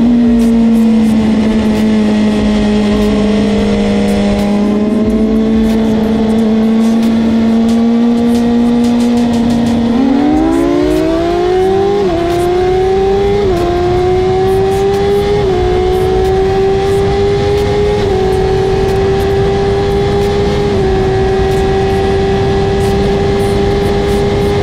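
Suzuki GSX-R1000 K3-K4's 988 cc inline-four engine at a steady cruise, then about ten seconds in opened up to full throttle, revving up hard and pulling through about five quick upshifts, with a short dip in pitch at each shift. Wind rush on the rider's camera underneath.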